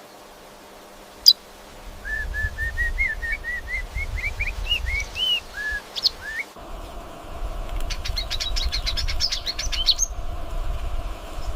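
A bird singing: a run of short whistled notes that climb gradually in pitch over a few seconds, then a fast, high chattering trill late on. A sharp click comes about a second in, over a low rumble.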